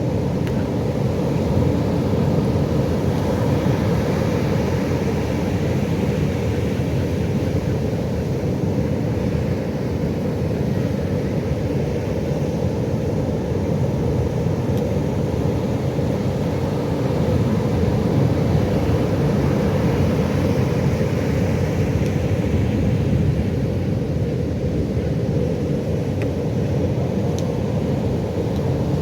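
Pacific Ocean surf: a steady low rumble of breaking waves, swelling gently now and then.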